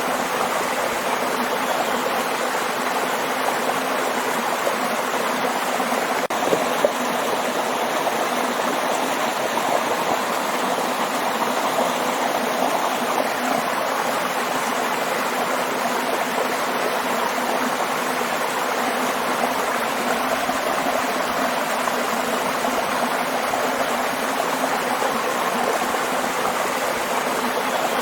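Waterfall water rushing and splashing in a steady, unbroken wash of noise.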